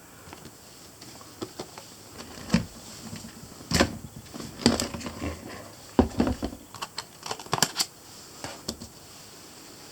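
Irregular clicks and light knocks from a small hatchet being handled and turned over, with no steady rhythm.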